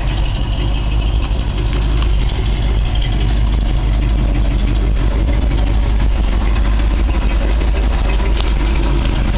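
1968 International Harvester 1300 dump truck's engine, an International 304 V8 according to its paperwork, idling steadily. A brief click sounds near the end.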